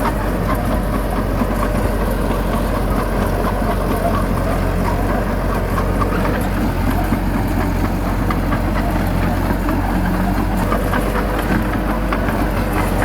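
Heavy diesel engine of earthmoving machinery running steadily at an even, unchanging level.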